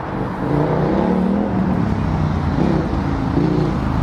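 Car engine running and revving, its pitch rising and falling, louder from about half a second in.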